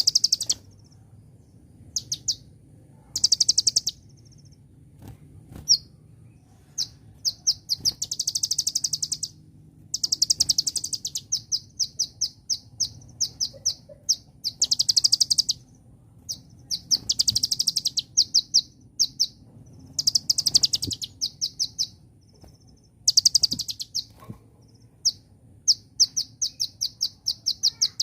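Kolibri ninja sunbird singing: high-pitched trills of rapid repeated notes, about a second each, broken up by single sharp chips.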